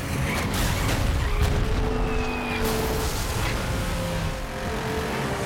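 Cartoon action-scene soundtrack: music with held notes over heavy low rumbling and impact sound effects.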